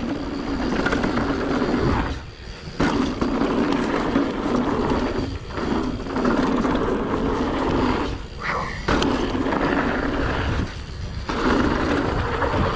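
Mountain bike rolling fast down a rough, rocky trail: wind rushing over the bike-mounted or helmet camera's microphone, mixed with tyre and bike rattle. It eases off briefly about four times.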